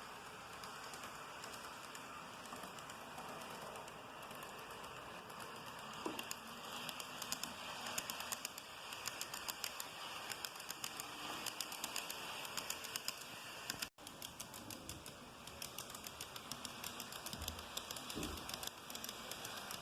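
TOMIX N-gauge Meitetsu 7000 series model train running on its track: a rapid, irregular clatter of small clicks from the wheels over the rail joints, getting busier about six seconds in.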